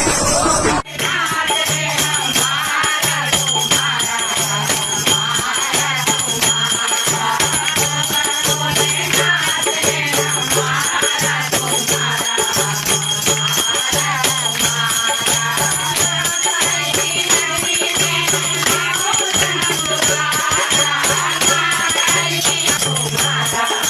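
Devotional aarti singing by a group over fast, jangling rattle-like percussion, steady high ringing, and a low beat pulsing about once a second. It starts abruptly about a second in.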